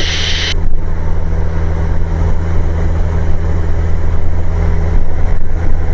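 Cessna light aircraft's piston engine and propeller droning steadily in cruise, heard in the cockpit. A radio or intercom hiss cuts off about half a second in.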